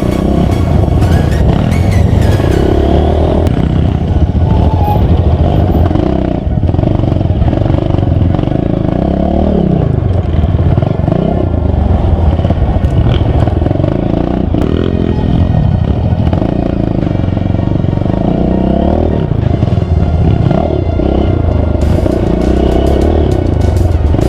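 Off-road vehicle engine working under load on a trail, its pitch rising and falling again and again as it is revved and eased off.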